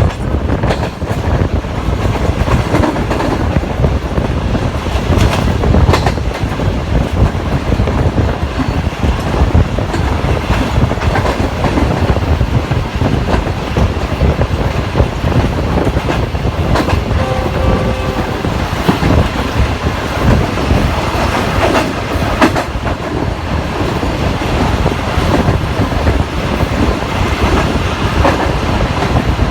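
Passenger train running on the track: a steady loud rumble with the wheels clicking over rail joints.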